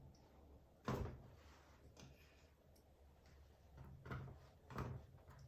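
Paint being dabbed onto a stretched canvas: three short, soft strokes, about a second in and again around four and five seconds in, over a faint low hum.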